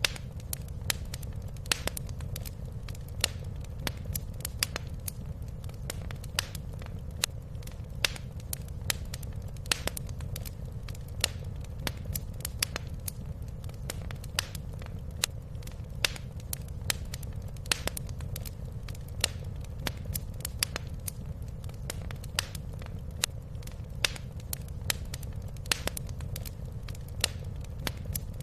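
Wood fire crackling steadily in a fireplace: frequent sharp snaps and pops at irregular moments, several a second, over a low, even rumble of the burning fire.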